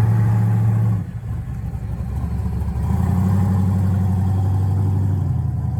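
A car engine running with a deep, steady low rumble. It drops back about a second in and picks up again about three seconds in.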